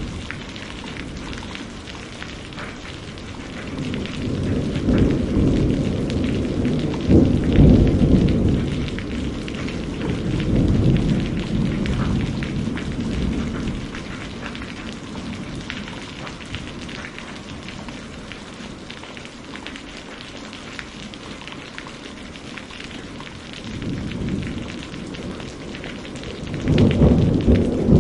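Steady rain with rolling thunder: a long low rumble builds about four seconds in and fades by the middle, and a second rumble rises near the end.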